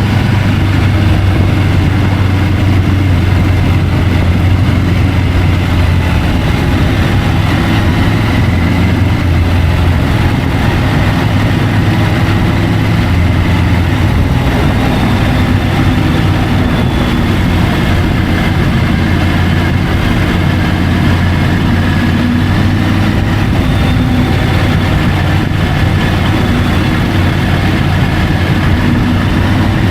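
Triumph Tiger 850 Sport's three-cylinder engine running at a fairly steady pitch while riding, heard through the bike-mounted camera's microphone with a steady rush of wind and road noise.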